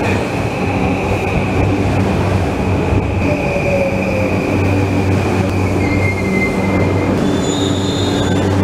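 Yamanote Line electric commuter train pulling into the platform and braking to a stop, its running rumble carrying a steady high brake squeal. Near the end, as it halts, higher squealing tones come in.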